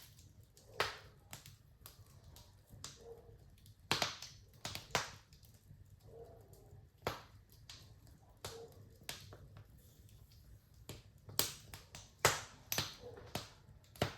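Wood fire crackling, with irregular sharp pops and snaps; the loudest cluster of pops comes about four to five seconds in and again near the end.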